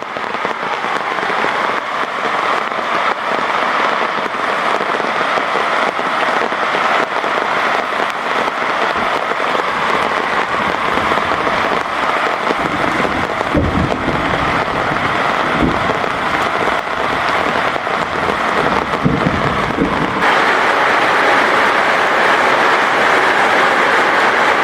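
Heavy rain falling steadily, a dense even hiss, with low rumbles in the middle. About twenty seconds in the sound changes abruptly to a slightly louder, denser downpour.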